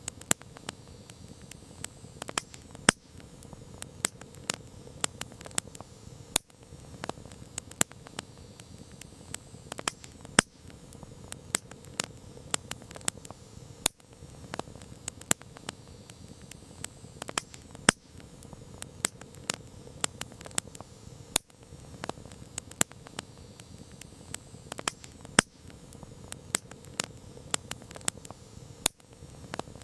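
Campfire crackling: frequent sharp pops and snaps at irregular intervals, a few much louder than the rest, over a low steady rustle of burning wood.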